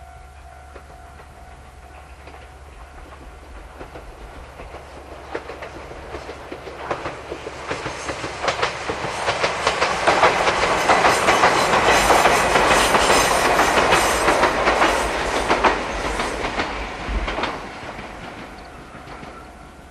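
Ichibata Electric Railway electric train passing close by, its wheels clicking over the rail joints. The sound builds over several seconds, is loudest about halfway through, and fades away near the end.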